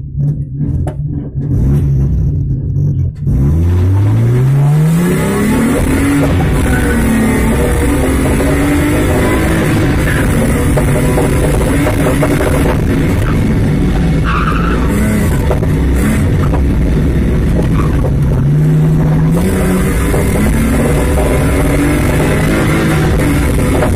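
BMW 320i rally car's engine heard from inside the cabin: held on uneven revs at the start line, then launching about three seconds in with the revs rising sharply, and running hard through repeated gear changes along the stage.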